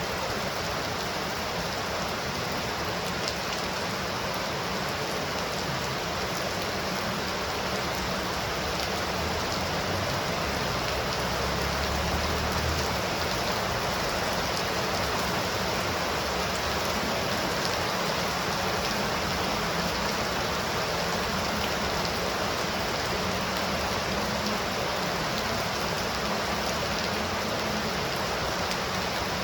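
Steady heavy rain pouring, an even hiss of drops on surfaces, with a brief low rumble about ten seconds in.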